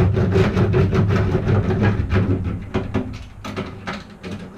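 The van's bare sheet-metal panel rumbles and rattles as Killmat sound-deadening mat is pressed and worked onto it. The sound is loud, with many irregular clicks, fades over the last couple of seconds and stops abruptly at the end.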